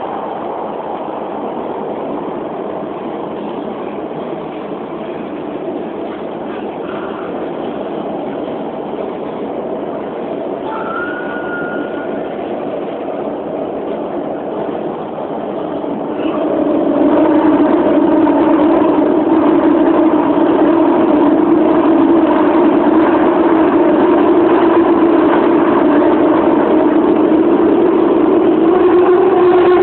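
Subway train running between stations, heard from inside the car: a steady rumble of running noise that grows louder about sixteen seconds in, when a strong low hum sets in.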